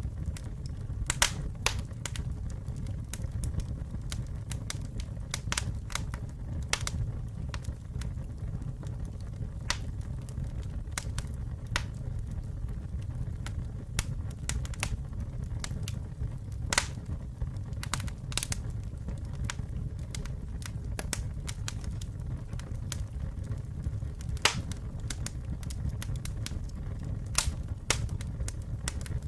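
Campfire burning with a steady low rumble and irregular sharp crackles and pops, a few every second.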